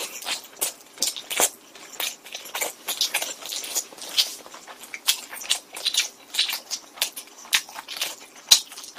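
A person chewing a mouthful of thin-crust pizza: a string of sharp, irregular wet clicks and crunches a few times a second.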